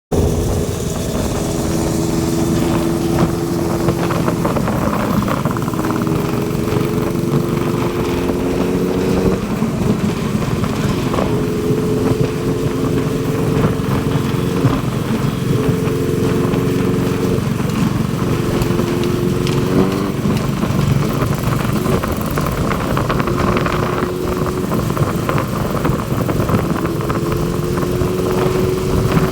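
Honda CBR650R's inline-four engine running under way, its pitch climbing slowly and dropping back several times, over a steady rush of noise.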